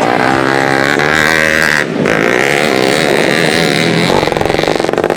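Motocross bike engines revving hard, their pitch rising and falling as they accelerate and back off. From about four seconds in, a nearer engine with a rapid firing rattle comes to the front.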